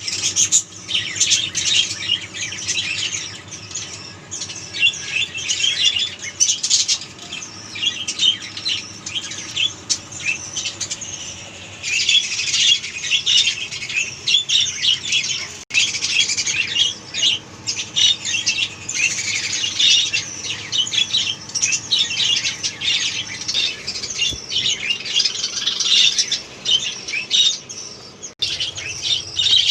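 A group of budgerigars chattering: many quick, overlapping high chirps and squawks.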